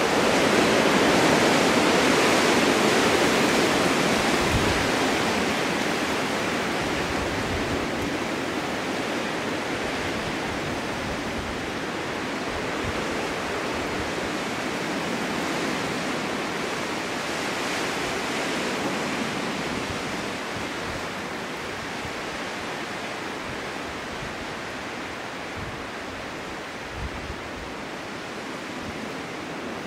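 Snowstorm wind blowing as a steady rush that swells in gusts, strongest at the start and again about two-thirds of the way through, then easing.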